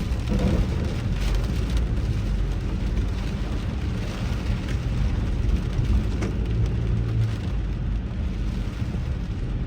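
A car driving in heavy rain, heard from inside the car: a steady low rumble of engine and tyres with an even hiss of rain and spray.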